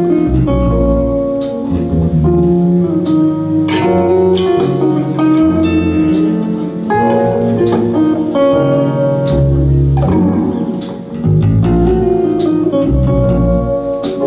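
Live band playing the instrumental intro of a soft-rock cover: guitar and bass over drums with regular cymbal or snare hits, and chords from keys.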